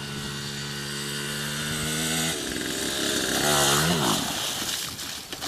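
Small dirt bike engine running at a steady idle, then revving: the pitch climbs and falls about three to four seconds in, the loudest part, before dropping back.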